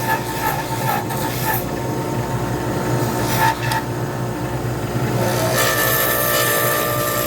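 Lathe running with a steady hum while a tool scrapes the spinning resin pen blank. The scraping eases after about a second and a half and picks up again strongly about five and a half seconds in.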